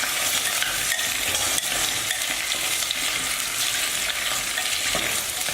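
Sliced onion frying in hot oil, sizzling steadily while it is stir-fried, with small ticks of the utensil in the pot.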